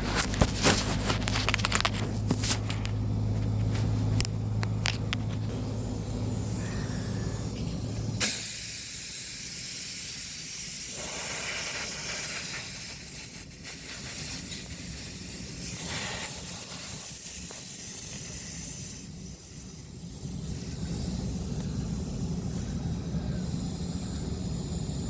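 A steady hiss of air at a punctured truck tire being plugged. For the first eight seconds a low hum and scattered clicks run under it; these stop abruptly, leaving only the hiss.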